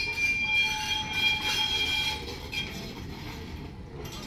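Train running along with a high, steady squeal of several tones for about two seconds at the start, then fading to a plain running rumble.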